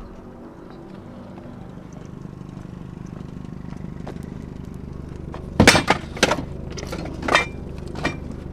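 A vehicle engine running, growing gradually louder, with a cluster of loud clanks and clinks of loose hard items about halfway through.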